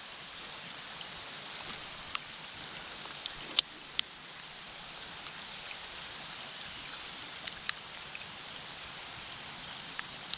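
Steady hiss of rain and flowing creek water, with a handful of sharp taps.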